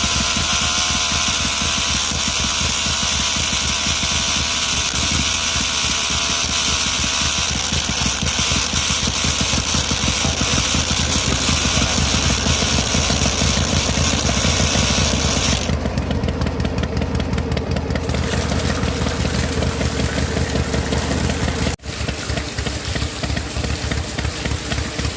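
A small motor running steadily with a fast, even pulsing, which fits the miniature tractor's drive running its flour-mill attachment. The higher part of the sound changes about two-thirds of the way through, and the sound cuts out for an instant near the end.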